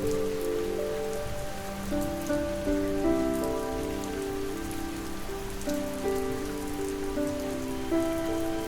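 Steady rain pattering, layered with slow, gentle sleep music: soft held notes that change every second or so over a sustained low drone.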